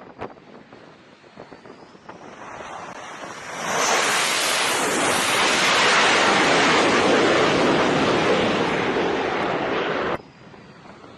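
Jet aircraft noise on a carrier flight deck: a loud rushing roar builds over a couple of seconds, holds, then cuts off suddenly near the end, with wind buffeting the microphone.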